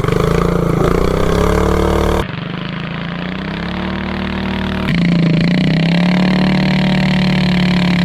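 Predator 420cc single-cylinder minibike engine with a header pipe, revving hard through a torque converter on a launch, its pitch climbing as the bike accelerates. The sound changes abruptly twice, quieter for a few seconds and then loud and high-revving.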